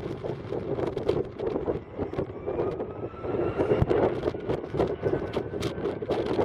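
Wind buffeting the microphone, with a Boeing 757-300's jet engines heard behind it as a faint whine that rises slowly in pitch from about two seconds in, as the engines spool up for takeoff.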